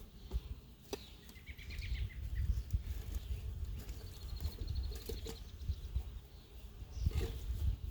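Songbirds singing: a short trill of repeated notes about a second and a half in, then a faster run of higher repeated notes about four seconds in, over a constant low rumble with a few sharp clicks.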